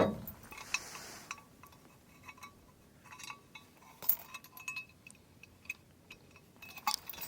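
Light metal clinks and ticks of truck-camper tie-down hardware being taken off, scattered irregularly, with a sharper clink about four seconds in.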